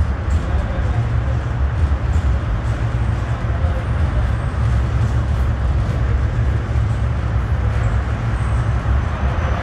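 Docklands Light Railway electric train running on the track and moving off, heard as a steady low rumble with no breaks.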